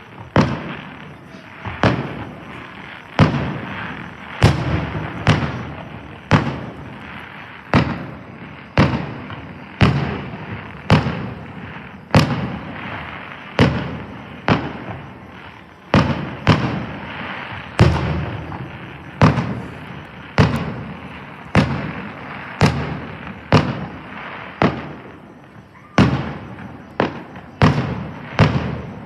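Aerial fireworks shells bursting one after another, about one bang a second, each bang ringing out and fading before the next.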